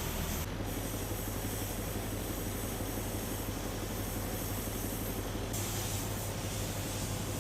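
Steady low engine drone under a broad hiss, typical of road-work machinery or passing traffic. The hiss shifts about half a second in and again near five and a half seconds in.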